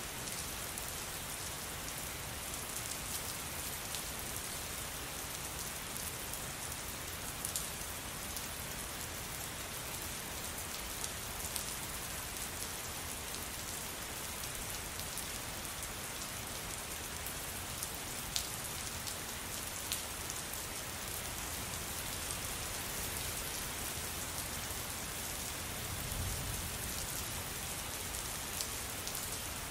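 Steady rain falling, an even hiss with scattered sharper drop clicks, and a brief low rumble near the end.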